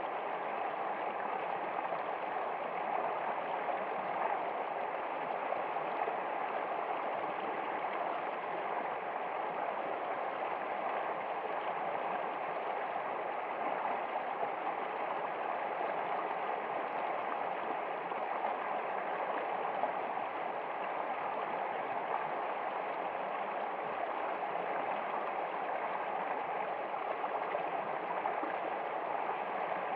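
Running water, like a stream, flowing steadily without change.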